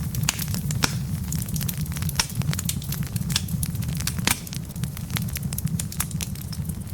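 Wood logs burning in a fireplace, crackling with many small, irregular sharp pops over a steady low rumble of the flames. One louder pop about four seconds in.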